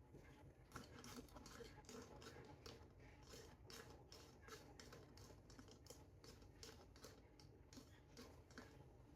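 Quiet, irregular light clicks and taps, two to four a second, of small plastic toy pieces being handled and fitted together.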